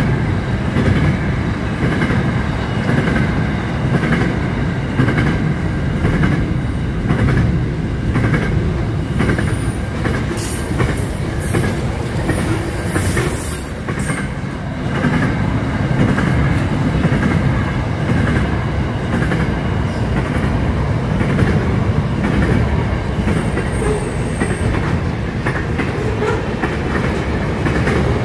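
Freight train's container wagons rolling past in a steady rumble, with wheels clattering over the rail joints. A brief high-pitched wheel squeal comes about ten seconds in.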